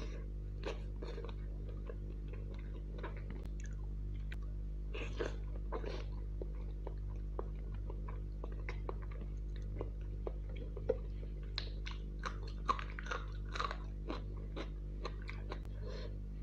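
Close-miked chewing of Maggi instant noodles and chicken, with many short wet smacks and mouth clicks. A steady low hum runs underneath.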